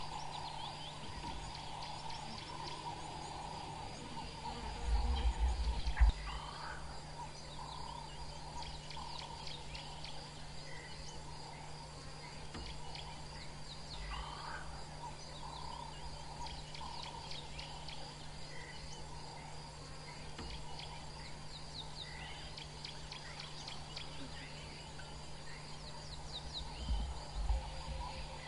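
Natural bush ambience: a steady chorus of insects with scattered chirping bird calls. Two short low rumbles break in, about five seconds in and near the end, the first ending in a sharp knock.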